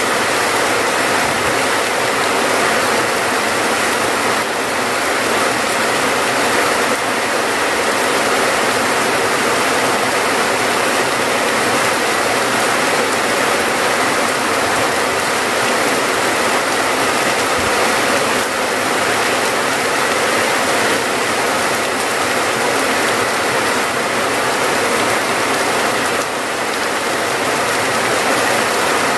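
Steady rain falling, a dense even hiss without pauses.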